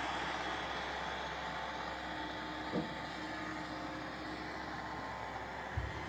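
Roomba robot vacuums running steadily: motor and brush hum over an even suction hiss, with two short knocks, one about halfway through and one near the end.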